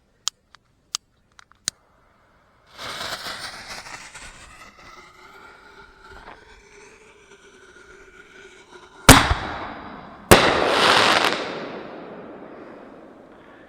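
Aerial ball shell firework: a sharp launch bang from the mortar tube, then the shell bursting overhead about a second later with a second loud bang and crackling that fades over a couple of seconds. Before it come a few faint clicks and a short hiss.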